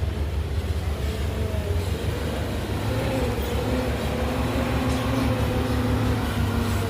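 Diesel engine of heavy earthmoving machinery running steadily, with a deep rumble and a held, slightly wavering engine note above it.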